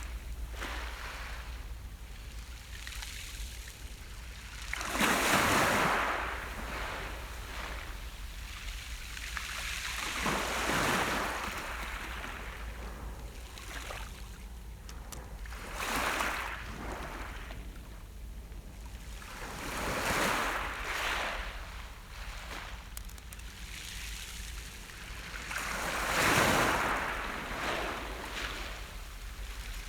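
Sea waves breaking on the shore. The surf rises and falls in a wash about every five to six seconds, with the loudest breakers about five seconds in and near the end.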